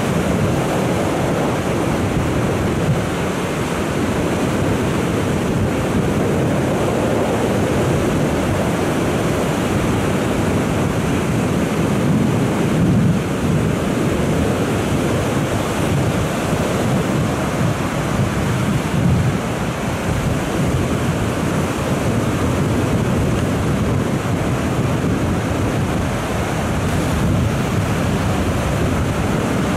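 Heavy surf breaking and washing onto a beach without a break, with strong onshore wind buffeting the microphone. The waves swell a little louder about halfway through.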